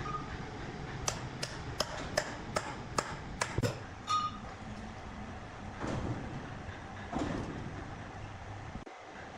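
A quick run of about eight sharp knocks, roughly three a second, then two duller thuds over steady background noise.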